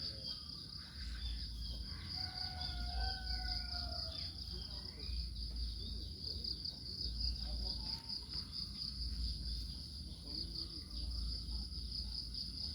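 A steady, high-pitched insect chorus of crickets trilling with a fast pulse. A few faint whistled calls come between about two and four seconds in, over a low rumble.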